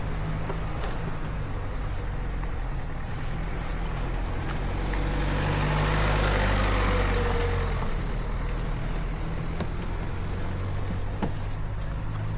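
Daelim Citi Ace small single-cylinder motorcycle engine running steadily on the road. Another vehicle's noise swells and fades around the middle.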